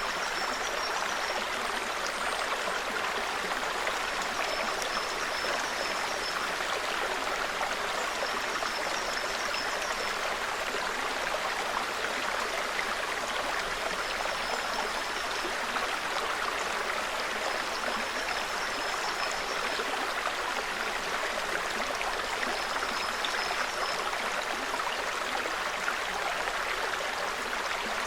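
Small forest stream babbling steadily, with a faint high bird call about a second long repeating every four or five seconds.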